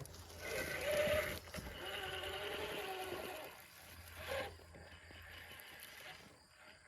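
Electric motor and geared drivetrain of a 1/6-scale RC rock crawler whining as it pulls over rocks, a steady pitched whine for about two seconds before it fades to a low hum.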